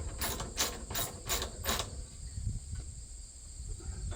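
Socket ratchet clicking as a bolt is cranked tight, about five clicks in the first two seconds and then quieter.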